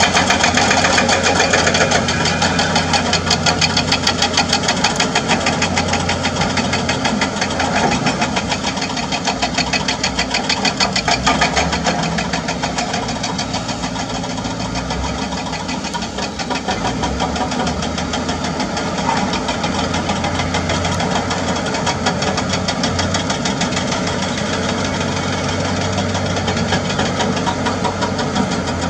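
Excavator's diesel engine running under load while a hydraulic breaker hammer pounds limestone in a fast, even stream of blows. The hammering is strongest over the first half and eases later into a steadier engine drone.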